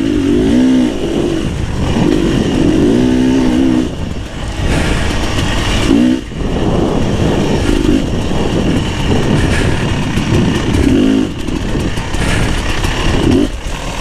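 Beta 300 RR two-stroke dirt bike engine under way, revving up and down with the throttle. Its pitch climbs and falls repeatedly, with brief drops off the throttle about four, six, eleven and thirteen seconds in.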